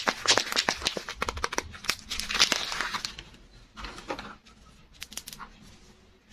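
Soap packaging being unwrapped by hand: dense crinkling and crackling for about three seconds, then thinning to a few scattered crinkles.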